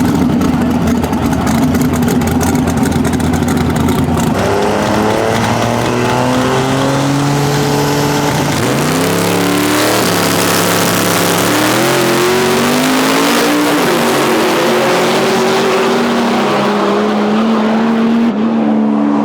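Drag-racing vehicle's engine at full throttle on a pass. About four seconds of crackling and tire noise, then the engine pitch climbs, falls back at a gear change and climbs again.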